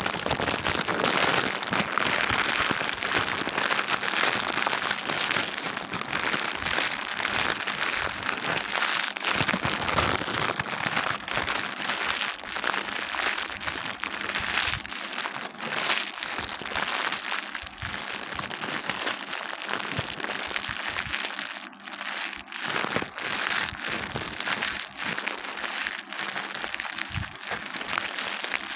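Dense, continuous crackling and crinkling made of many small clicks, with no steady pitch.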